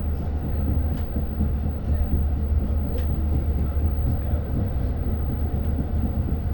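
Long Island Rail Road passenger train running, heard from inside the car: a steady low rumble, with a couple of sharp clicks from the wheels or car body.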